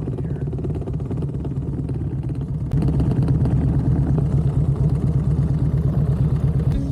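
Harley-Davidson Ultra Classic's V-twin engine running with a fast, uneven pulsing beat, getting louder about three seconds in.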